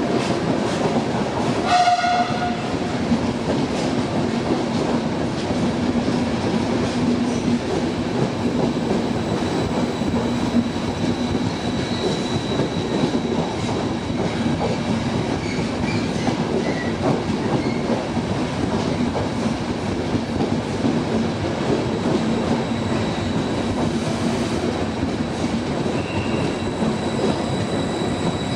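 Train running through the station, a steady loud rumble, with a short horn blast about two seconds in.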